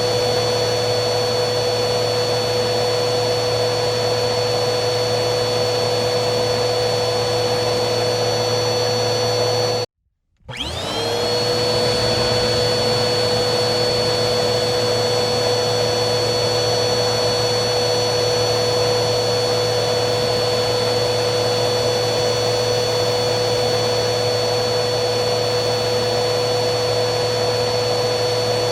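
Vacuum cleaner motor running steadily with a constant whine. About ten seconds in it cuts out suddenly for half a second, then starts again, its whine rising as the motor spins back up to speed.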